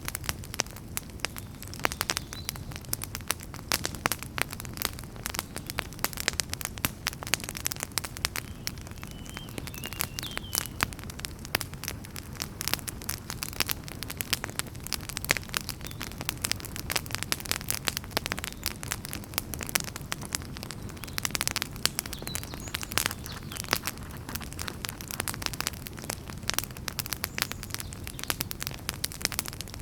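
Wood fire burning in a fireplace: dense, irregular crackles and pops over a low, steady rumble of flames.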